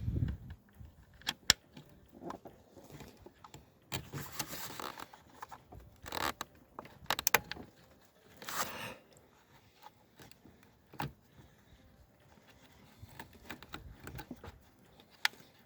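Hand tools and metal parts being handled during car repair work: scattered sharp metallic clicks and clinks with a few short scraping rustles between them.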